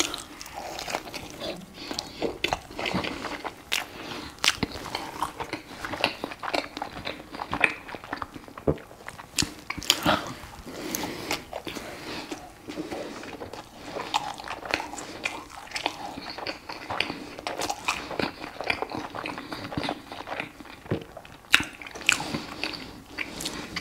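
A person biting into and chewing a burger close to a lapel microphone, with many short, sharp mouth clicks.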